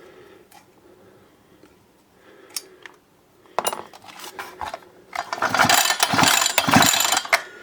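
Mechanical clicking and ratcheting as the brush cutter's engine is handled: a few faint clicks, then about two seconds of dense, fast ratcheting clatter near the end.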